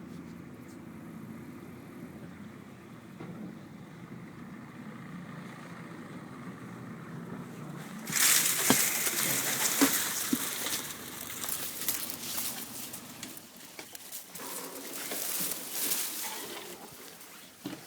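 Boat motor running low and steady; about eight seconds in, a loud rustling, hissing noise with a few sharp clicks takes over and runs for several seconds.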